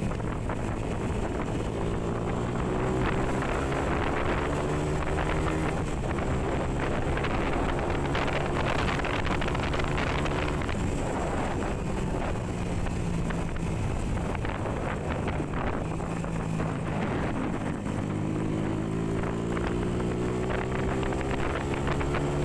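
Honda CB motorcycle engine running on the road, its pitch climbing and easing with the throttle and climbing again near the end, with wind buffeting the microphone.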